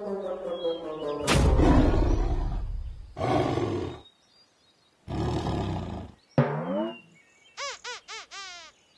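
Cartoon tiger roars, three of them about a second apart, made by a lyrebird mimicking a tiger to scare off intruders. Near the end come a short rising call and a quick run of bird chirps.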